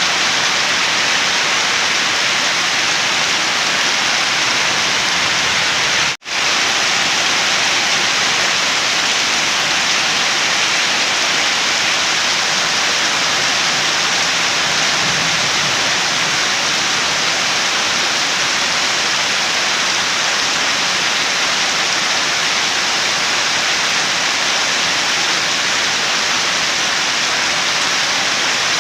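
Steady, even rain falling, with no thunder or other sounds; it cuts out for an instant about six seconds in, then carries on unchanged.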